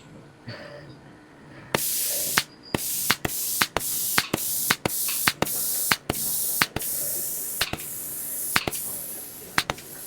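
Spray gun on a spraying robot hissing in a run of short bursts, starting about two seconds in. Each burst is cut off by a sharp click; they come about two a second at first and grow longer near the end.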